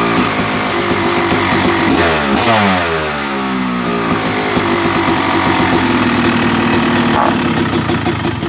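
Freshly rebuilt Yamaha YZ250 two-stroke motocross engine, bored to 270cc, running; its pitch falls sharply about two seconds in, then it runs steadily.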